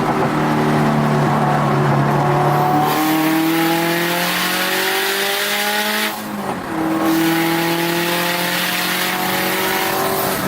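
Turbocharged Subaru WRX STI flat-four engine under hard acceleration, heard from inside the car: the revs climb, drop with a quick upshift about six seconds in, then climb again.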